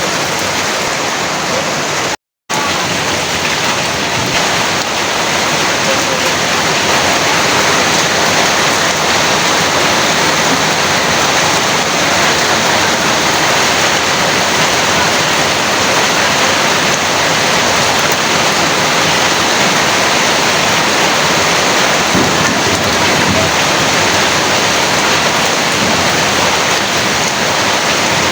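Heavy rain falling steadily, a dense even hiss. The sound cuts out completely for a moment about two seconds in, then carries on unchanged.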